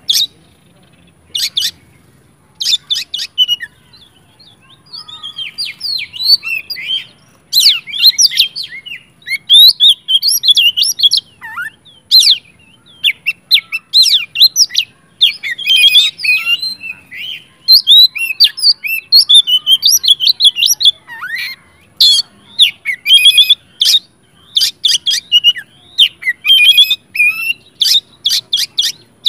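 Oriental magpie-robin (kacer) in full, aggressive song: a rapid, varied stream of loud whistled and chattering phrases. There are short gaps in the first few seconds, and from about a quarter of the way in the song runs almost without a break.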